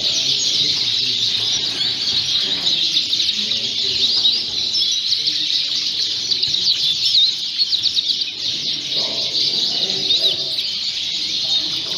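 Many Fife canaries chirping and singing at once, a dense, continuous chorus of quick high trills and chirps. A faint murmur of people's voices sits underneath.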